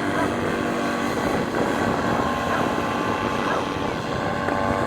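A steady engine drone with faint voices in the background.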